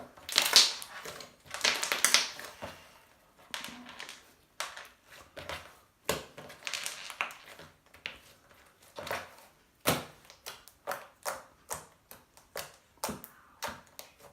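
Large homemade slime being squished, stretched and poked by hand, crackling and popping in irregular bursts that turn into a faster run of short pops in the second half.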